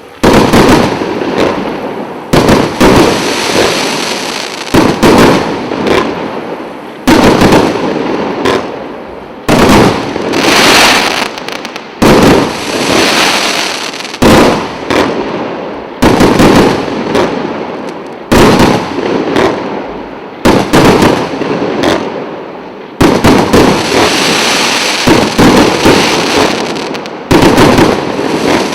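A 100-shot, 1.25-inch fireworks cake firing, loud shots coming one after another every second or two, each burst trailing off before the next.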